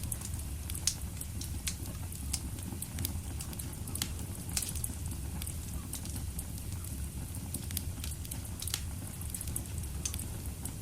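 Wood fire in a fireplace crackling: irregular sharp pops and snaps over a steady low rumble of the burning flames.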